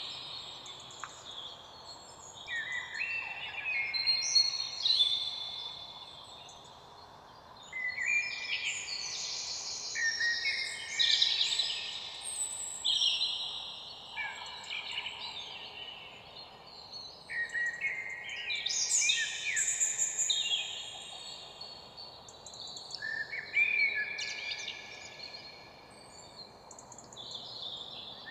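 Several songbirds singing, with overlapping high chirping and warbling phrases that come in bouts of a few seconds separated by quieter pauses, over a faint steady outdoor hiss.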